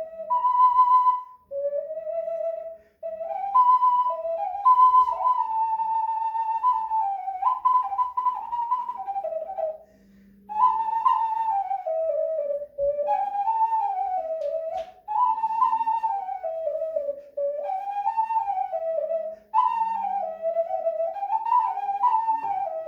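A D-major ocarina playing Romanian folk tunes as a single melody line, with short breath pauses and a longer break about ten seconds in.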